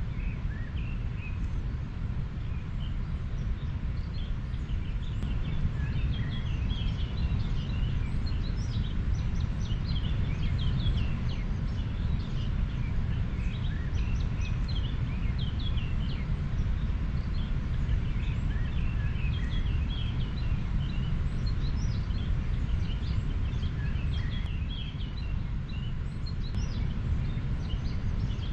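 River water flowing with a steady deep rush, and many small birds chirping briefly over it.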